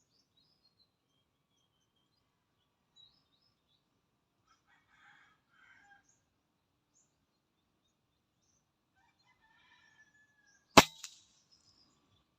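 A single sharp crack of a PCP air rifle shot, followed a split second later by a fainter smack, typical of the pellet striking its target. Faint bird calls and chirps before the shot.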